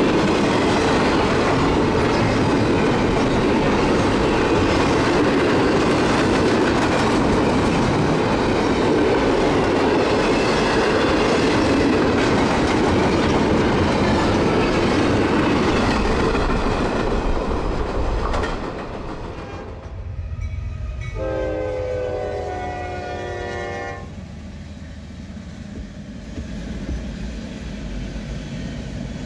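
Double-stack container freight train rolling past close by: a loud, steady clatter of wheels and cars. About eighteen seconds in it cuts off suddenly to a quieter scene, where a train horn sounds one long blast of about three seconds, several tones at once, followed by the lower rumble of passing boxcars.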